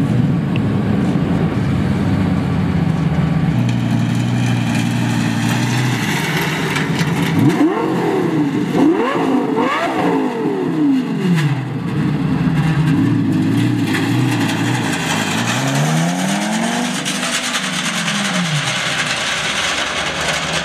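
Lamborghini Gallardo V10 running through huge oversized exhaust pipes, very loud. It holds a steady drone for several seconds, then is revved in a run of quick rises and falls from about seven seconds in, with one longer rise and fall near the end.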